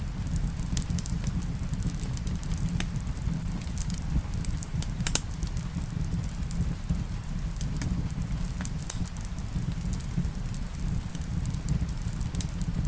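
Wood fire crackling in a fireplace: irregular sharp pops and snaps over a steady low rumble, the strongest pop about five seconds in. A soft hiss of rain runs underneath.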